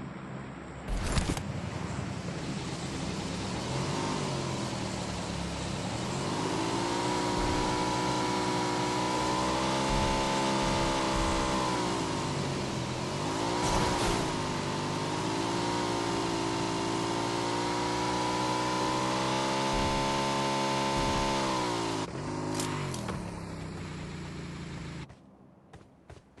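Motorcycle engine running under way over steady wind and road rush, its pitch climbing and holding, dipping once about halfway and rising again, then falling off and cutting out near the end. A few sharp knocks stand out, the loudest about a second in.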